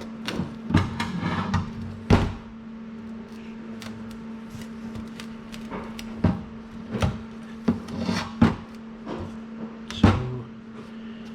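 Irregular knocks and clatter of stainless exhaust pipe sections being handled and offered up into place, over a steady low hum.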